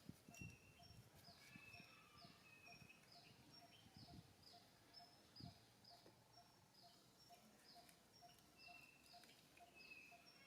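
Faint outdoor bird calls: a steady series of short, high, falling chirps about twice a second, with an occasional brief trill from another bird, over a faint even ticking.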